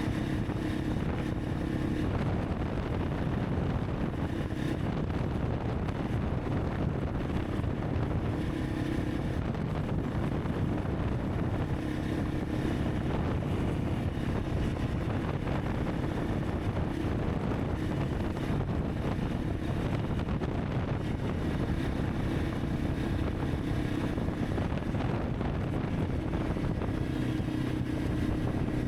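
Honda CRF300 Rally's single-cylinder four-stroke engine running steadily while riding, its note shifting only slightly, with wind buffeting the microphone.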